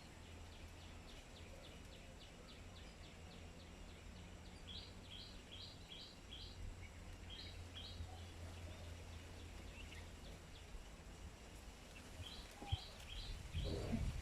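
A bird chirping in quick runs of short, high notes, about three a second, over a steady low hum. Near the end there are a few louder low thumps or rustles.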